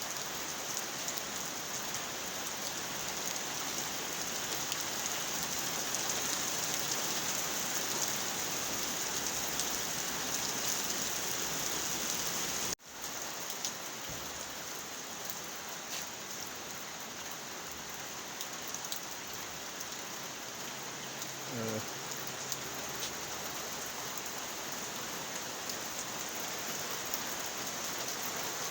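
Steady rain pouring down in a constant hiss. The sound drops out for an instant about halfway through.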